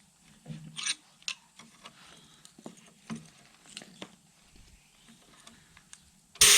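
Scattered light clicks and knocks of metal parts and tools being handled on an old engine, then a sudden loud hiss starts near the end.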